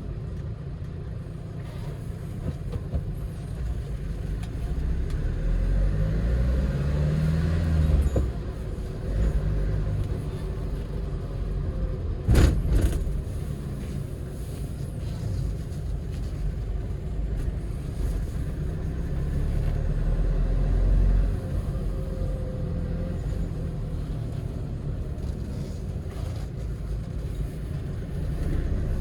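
Hyundai Porter II truck driving, its engine and road noise heard from inside the cab. The engine pitch rises as it accelerates a few seconds in and again near the end, and there is one sharp knock about twelve seconds in.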